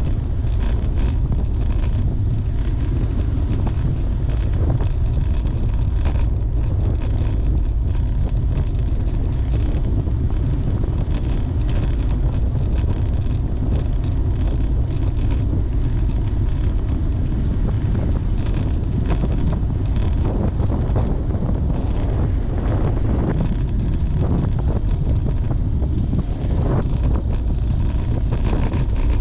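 Wind buffeting the microphone of a camera riding along on a road bicycle: a steady low rumble that hardly changes.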